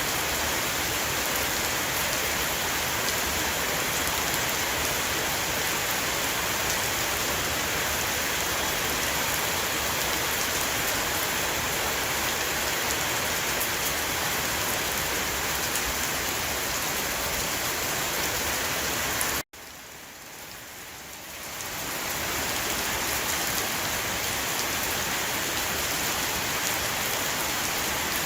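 A heavy rain shower falling on a roof, a steady dense hiss of rain. About two-thirds of the way through, it cuts out for an instant, comes back quieter, and builds back up over about two seconds.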